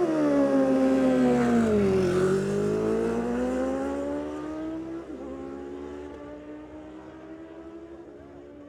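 Superbike engine at high revs, its note dipping and then climbing hard as the bike accelerates away down the drag strip, fading with distance. It shifts up twice, about five and eight seconds in.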